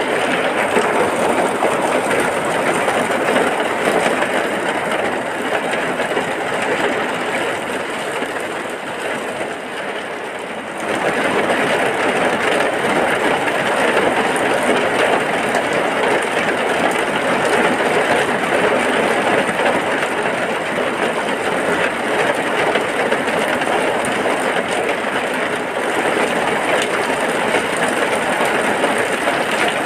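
Heavy rain falling steadily, a dense even hiss. It softens a little about a third of the way through and then comes back suddenly at full strength.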